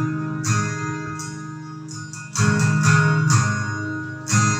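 Guitar strumming slow chords, about one every two seconds, each left to ring and fade.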